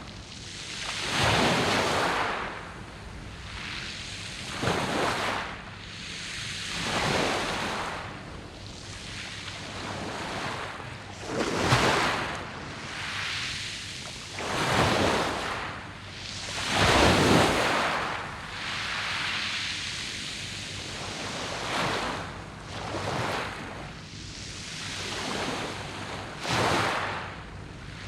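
Sea waves breaking and washing over a beach of round pebbles, one swell every two to three seconds.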